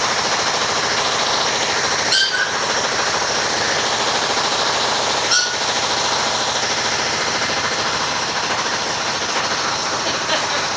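Jackhammer hammering continuously at a rapid rate, with two momentary breaks about two and five seconds in.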